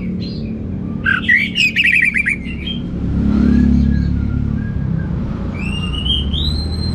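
Orange-headed thrush singing: a quick run of chattering, clicking notes about a second in, then a rising series of whistled notes near the end. A steady low rumble runs underneath and swells in the middle.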